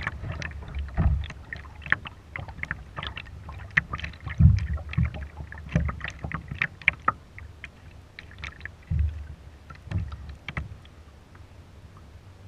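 Kayak paddling: irregular splashes and water clicks from the paddle, with occasional low thumps, dying down near the end.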